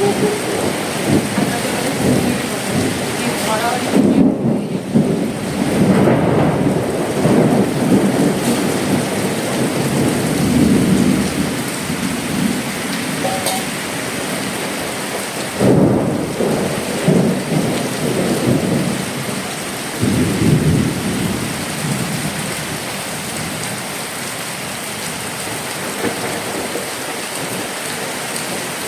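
Heavy cyclone rain falling steadily, with loud, irregular rumbling swells during the first ten seconds or so and again around the middle. The rain settles into a steadier, slightly quieter hiss near the end.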